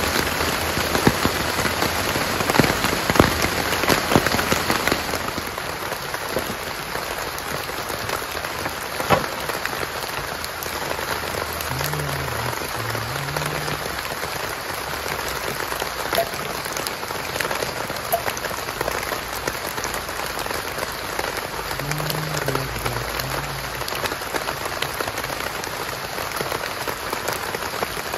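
Heavy rain falling on a tent flysheet, a steady rush with sharp ticks of single drops, a little heavier in the first five seconds.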